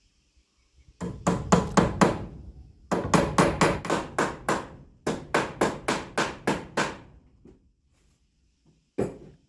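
Hammer blows on wood in three quick runs of about four or five strikes a second, then one more blow near the end.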